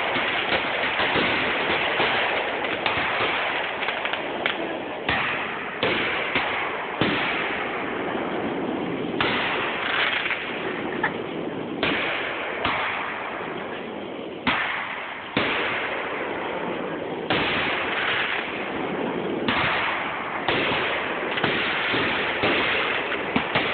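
Aerial fireworks going off in quick succession: a sharp bang every second or two, each trailing off into a hissing fade that runs into the next.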